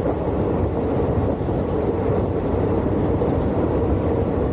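Indian passenger train running at speed, heard from its open doorway: a steady rumble of wheels on the rails mixed with wind noise.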